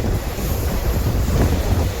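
Steady rumble of a moving train, with heavy wind buffeting the microphone.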